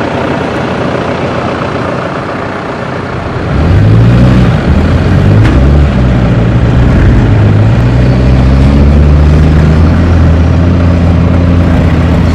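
4x4 engine revving hard as the vehicle pulls away through soft dune sand, its pitch climbing and wavering under load. For the first three seconds or so there is only a steady rushing noise.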